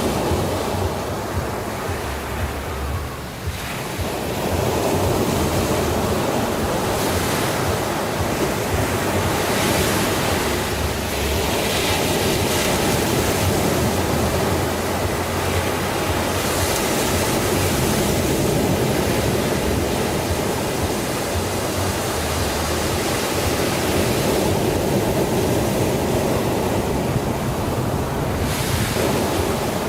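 Sea waves breaking and washing on a shore, the surf swelling and easing every few seconds, with a dip about three seconds in.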